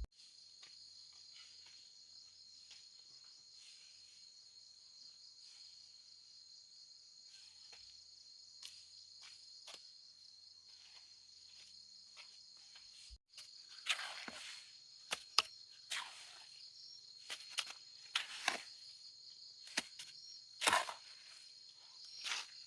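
Steady high-pitched chorus of insects such as crickets or cicadas, with scattered faint clicks. From about halfway, louder irregular knocks and scrapes join in.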